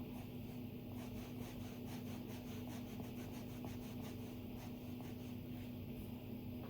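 Stylus tip on an iPad's glass screen, making quick light drawing strokes and taps several times a second, over a steady low hum. The strokes thin out about a second before the end.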